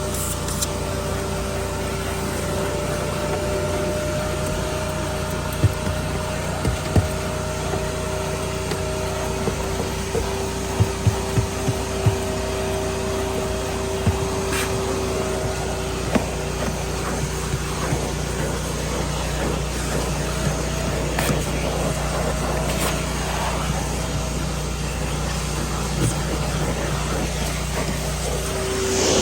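Steady hum of a running motor, holding one pitch throughout, with a scattering of light clicks and knocks, most of them between about six and twelve seconds in.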